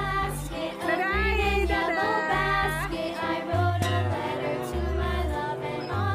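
A children's song with a sung melody over a bass line, played through the loudspeaker of a coin-operated kiddie ride.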